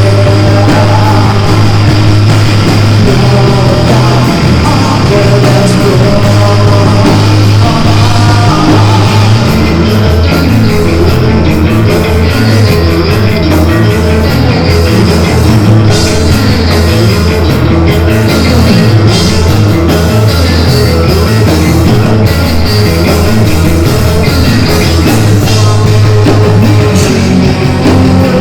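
Live rock band playing loud: distorted electric guitar and a heavy bass line over drums, with a dense, full sound.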